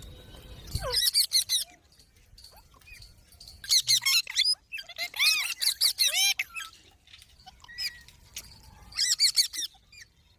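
Pet parrots squawking in short spells of harsh, high, up-and-down calls, four spells in all with quiet gaps between: two birds squabbling.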